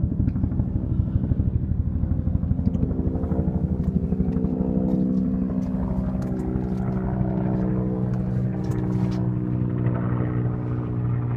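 Heavy truck diesel engine idling, a steady low drone that throbs in quick pulses for the first few seconds and then evens out.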